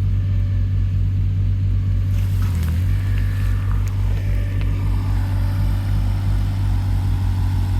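Avant 423 compact loader's diesel engine running steadily, with a short dip in its note about two and a half seconds in as it works.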